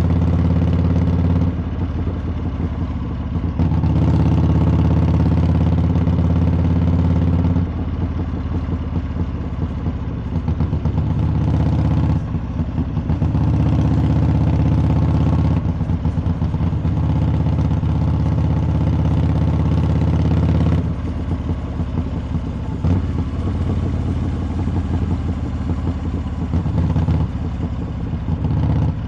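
Harley-Davidson V-twin's exhaust while riding, the throttle opening and closing: loud steady pulls alternate several times with quieter off-throttle stretches where the exhaust note breaks into a rapid lumpy pulsing.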